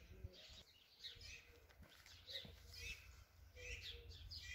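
Faint songbirds chirping: a quick, busy run of short high chirps, over a low steady rumble.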